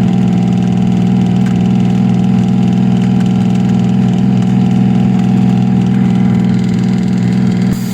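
Concrete truck's diesel engine running at a steady speed, a loud, even low drone that drops away abruptly near the end.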